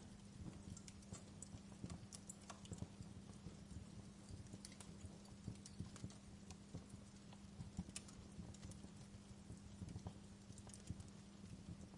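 Wood fire crackling, with irregular small pops and snaps, over a faint steady low hum.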